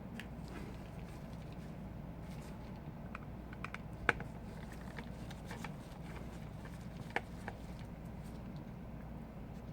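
Scattered light clicks and taps of small repair tools and screws on a phone being taken apart, the sharpest about four seconds in, over a steady low hum.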